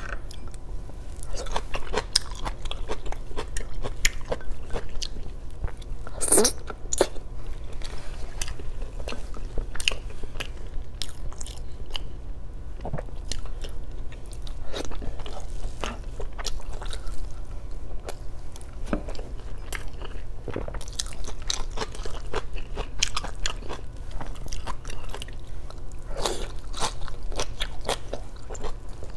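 Close-miked mouth sounds of a person eating chicken and pork adobo with rice by hand: chewing and biting, with many short, irregular wet clicks.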